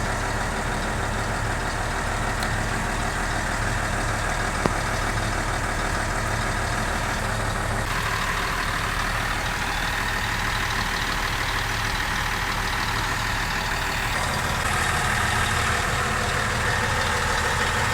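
Heavy truck diesel engine idling steadily in a workshop, with one sharp tap about five seconds in.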